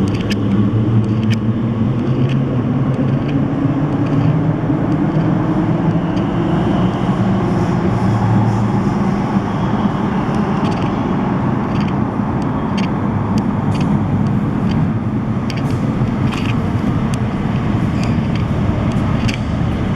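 Elizabeth line Class 345 electric train running at the platform: a steady, loud rumble with a low electric motor hum that slowly shifts in pitch, and scattered faint clicks.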